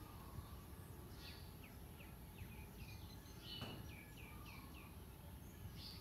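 Faint bird calls: a run of short, downward-sliding chirps through the middle, with a single click about three and a half seconds in, over a low rumble of background noise.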